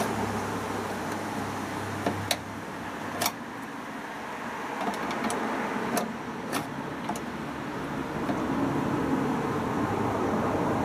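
A few sharp clicks and knocks, four or five of them in the first seven seconds, over a steady background noise: hands working the door and door latch of a Hotpoint Ultima WT960 washing machine, which will not lock because the machine has no power.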